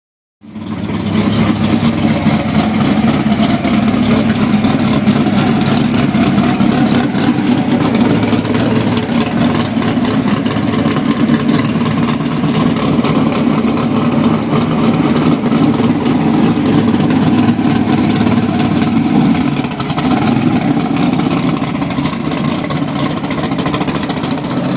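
Race car engines idling loudly with a steady, even pitch, under a hissy noise. The sound cuts in abruptly about half a second in.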